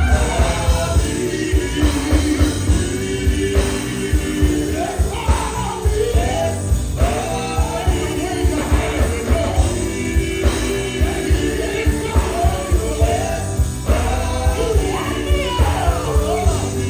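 Live gospel music: a band with a strong, steady beat, under a singing voice.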